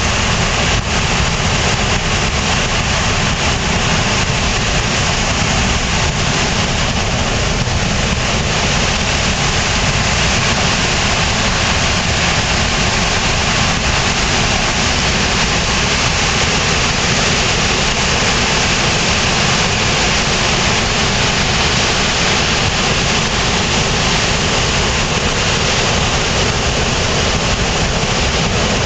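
Flood-swollen river branch pouring over a waterfall in hurricane floodwater: a loud, steady roar of rushing water.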